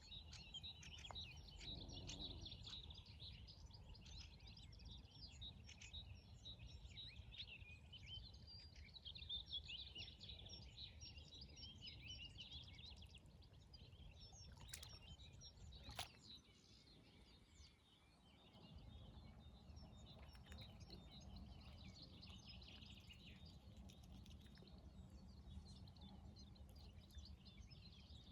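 Faint chorus of many small birds chirping and singing over a low, steady rumble of background noise. Two sharp clicks sound near the middle, and the rumble drops out briefly a little after them.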